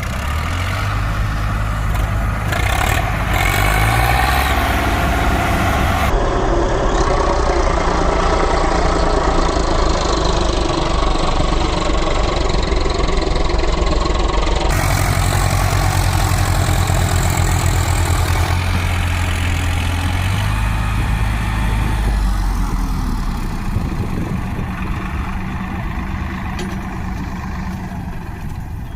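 Heavy vehicle engine running hard under load, its pitch stepping up and down several times as the throttle changes, then easing off and getting quieter near the end; the sound of a stuck truck being pulled free.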